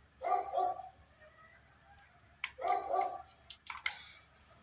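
A dog barking twice, about two and a half seconds apart, with a few sharp clicks in between.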